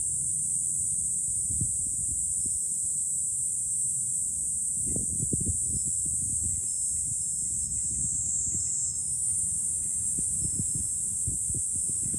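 Cicadas shrilling in a steady, high, unbroken chorus, with gusts of wind rumbling on the microphone now and then, strongest about five seconds in.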